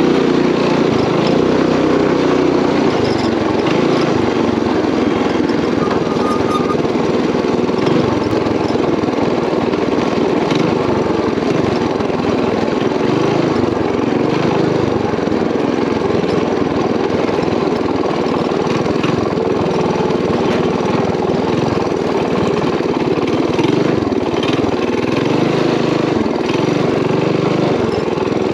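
Small single-cylinder four-stroke engine of a Coleman mini bike running under way on a rough off-road trail. Its note rises and falls in pitch as the throttle changes.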